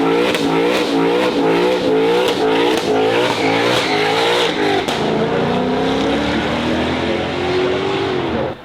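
Ford Mustang GTD's 5.2-litre supercharged V8 revved hard in quick repeated blips, about two a second, with crackles on top. About five seconds in it settles into a longer pull that rises in pitch, then cuts off abruptly near the end.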